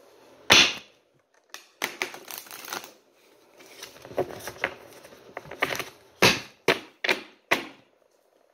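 Large oracle cards being shuffled by hand: stretches of card-on-card rustling broken by sharp slaps, with four quick sharp taps about two-thirds of the way in.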